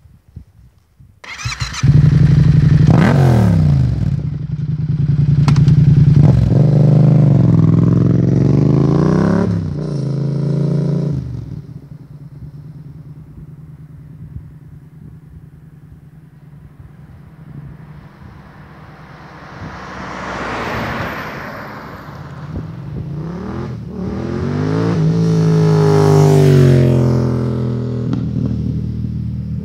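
Yamaha MT-07 parallel-twin engine through a MIVV GP carbon aftermarket exhaust, revved hard several times with the pitch climbing and dropping. It settles to a lower, steadier running in the middle before swelling up loud again twice near the end.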